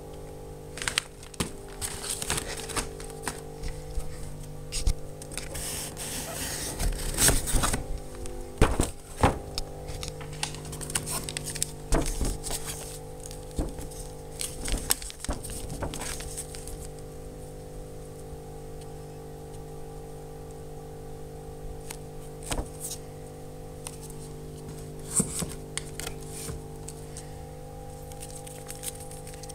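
Handling noises: a run of knocks, scrapes and crinkles, busiest in the first half and again briefly later on, over a steady droning tone.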